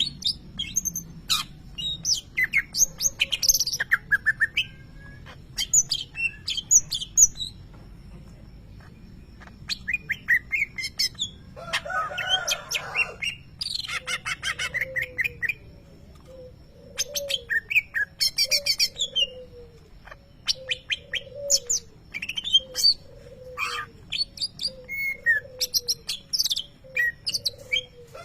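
Greater green leafbird (cucak ijo) singing in bursts of fast, sharp chirps and trills, its song carrying mimicked lovebird calls. From about halfway on, a low short note repeats roughly every 0.7 s beneath the song.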